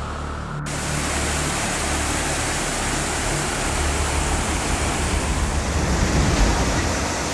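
Steady rush of falling water, as from a mountain waterfall, cutting in abruptly about half a second in after a brief duller hum.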